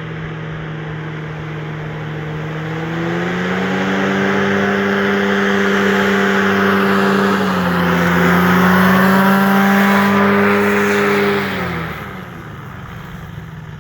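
Powered parachute's engine and propeller running at takeoff power. It rises in pitch and loudness as it powers up and comes close, then drops in pitch and fades away near the end as it passes.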